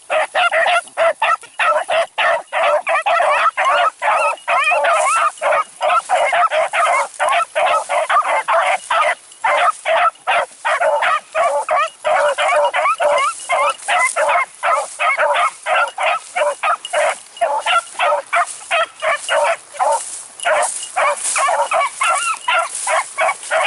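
A pack of beagles baying on a rabbit's trail, many overlapping voices in a rapid, unbroken chorus, the sound of hounds running the scent in full cry.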